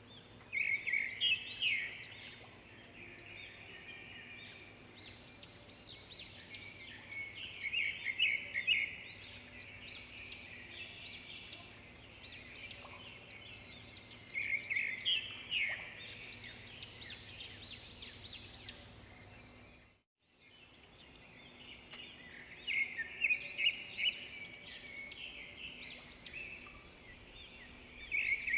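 Birds chirping and singing in repeated bursts of rapid, high-pitched notes. The sound cuts out briefly about twenty seconds in, then the chirping resumes.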